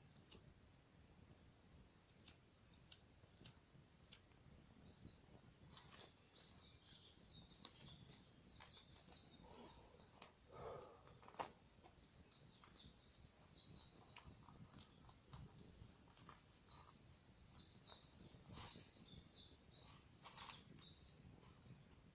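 Faint birdsong, rapid high chirping from about five seconds in almost to the end, over the sparse sharp crackles of a wood campfire, which are clearest in the first few seconds.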